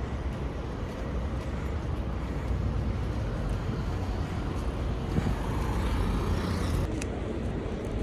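Steady low rumble of road vehicle noise, with a few faint clicks near the end.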